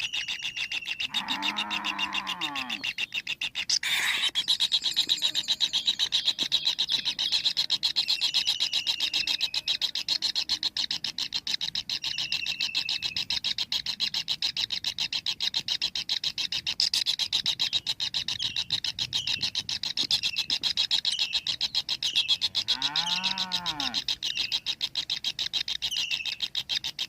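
Animal calls: a steady, fast-pulsing rasp with short chirps repeating over it, and twice a longer, lower call that rises and then falls in pitch.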